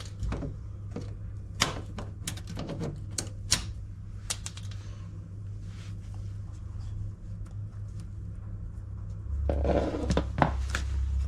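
Hand tools and washing-machine parts being worked: a string of sharp clicks and clacks in the first few seconds, then a quieter stretch and a louder scraping rustle about ten seconds in, over a steady low hum.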